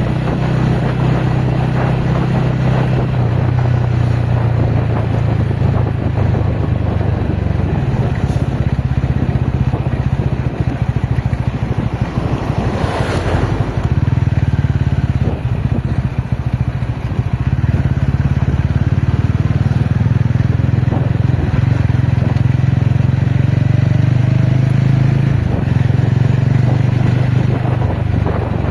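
TVS Ronin motorcycle's single-cylinder engine running steadily under way, easing off for several seconds about halfway through before picking up again, with a brief rush of noise near the middle.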